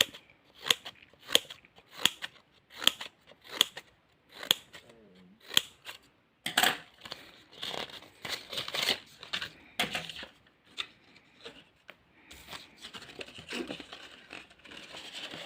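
Scissors snipping through a bundle of stacked green paper strips to cut a fringe of grass: a run of crisp snips, about one every three-quarters of a second, for the first six seconds, then paper rustling with a few more snips.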